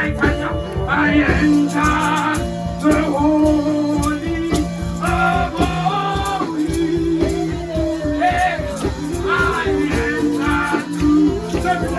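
Gospel worship music with a steady beat, bass and a sung melody line.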